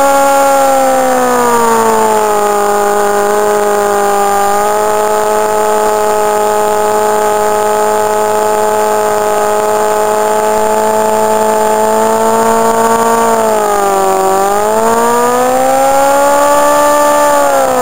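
Yamaha R1's inline-four engine held at high revs during a burnout, the rear tire spinning against the pavement. The revs sag about a second in, hold steady, dip about three-quarters of the way through and climb back near the end.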